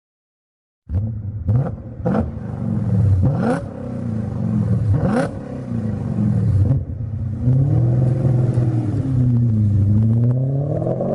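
Car engine being revved: several quick throttle blips in the first few seconds, then slower rises and falls in pitch, climbing again near the end.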